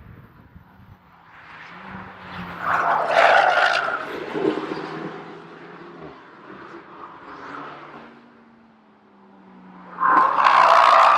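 Renault Mégane 4 RS's turbocharged 1.8-litre four-cylinder engine running, surging loud twice: once about three seconds in and again near the end, with a steadier drone in between.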